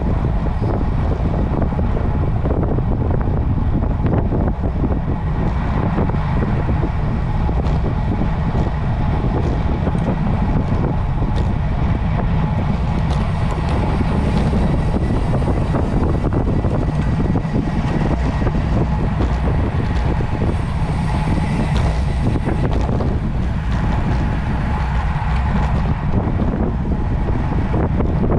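Wind buffeting the microphone of a camera on a road bike during a ride, a steady low rumble with a fainter hiss above it.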